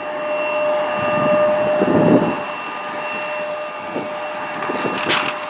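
Jet airliner engines running: a steady high whine over a rushing roar, with a brief louder swell about two seconds in and a short hiss near the end.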